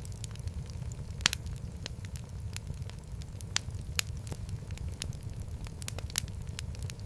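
Wood fire burning in a fireplace: irregular sharp crackles and pops over a steady low rumble, with the loudest pop about a second in.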